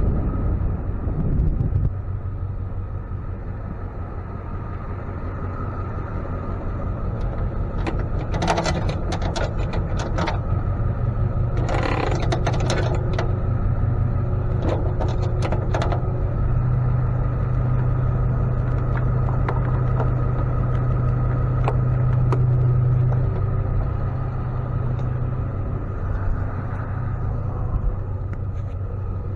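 Ford F-550 tow truck's engine running steadily, its hum growing stronger for several seconds in the middle. Metallic clicks and short rattles come a few seconds in, as chains, straps or hardware are handled.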